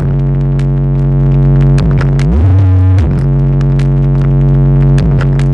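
A large street sound system playing loud, distorted electronic music built on a heavy, sustained bass tone, with sharp beats over it. The bass slides down in pitch and back up about two seconds in, and glides again near the end.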